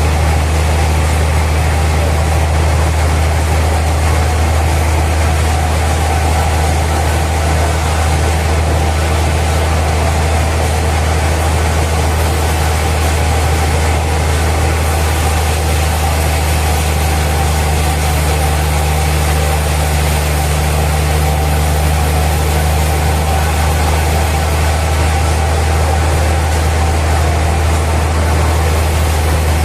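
Sawmill machinery running steadily: a constant low engine-like hum that holds the same pitch and level throughout, with no sign of a cut starting or stopping.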